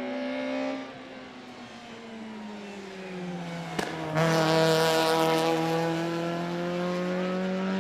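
Race car engine on a hillclimb run: the note falls as the car slows, a sharp crack comes just before four seconds in, then the engine gets suddenly louder and its pitch climbs slowly as the car accelerates.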